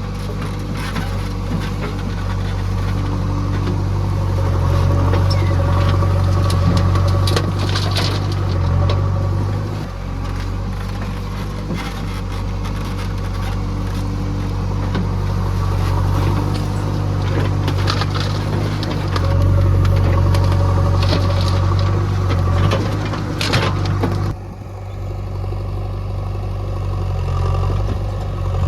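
JCB 3DX backhoe loader's diesel engine running and working under changing load, swelling twice, with sharp clatters as loaded material drops and knocks; the higher noise falls away suddenly near the end while the engine keeps running.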